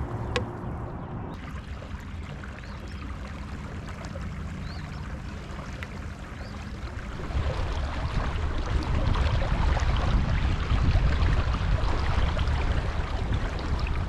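Water lapping and splashing against a fishing kayak. A low rumble grows much louder about halfway through.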